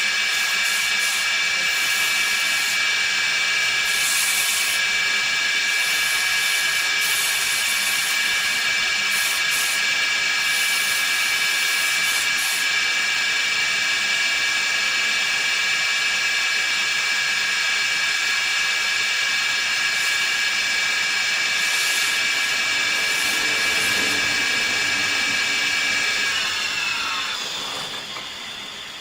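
Woodworking machine running at speed: a steady high whine over a hiss. Near the end it winds down, the whine falling in pitch and fading.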